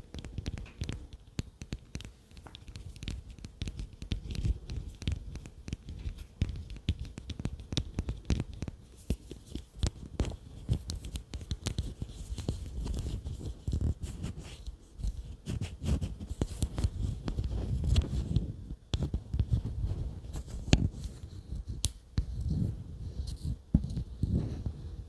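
ASMR trigger tapping: objects tapped rapidly close to the microphone, a dense, irregular run of quick taps with soft low thuds.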